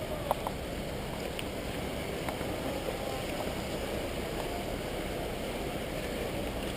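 Steady rush of a flooded river running high, with a few faint clicks at the start.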